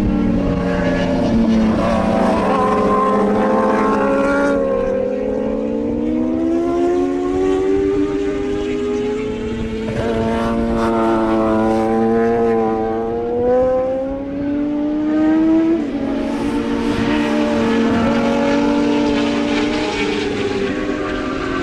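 Racing motorcycle engines running hard, several at once, their pitch climbing and dropping as they rev through the gears, with sudden drops around four and a half and sixteen seconds in.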